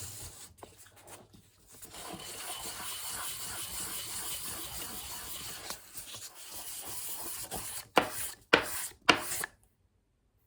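Pipe bowl rim being rubbed round and round on 1500-grit sandpaper, a steady scratchy rubbing, to take the burn off the top of the rim. Three sharp knocks come near the end.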